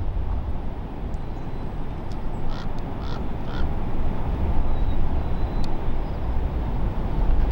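A bird gives three short, harsh calls in quick succession a few seconds in, over a steady low outdoor rumble.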